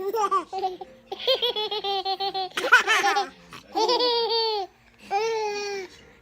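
A baby laughing in about five long, high-pitched peals with short breaks between them.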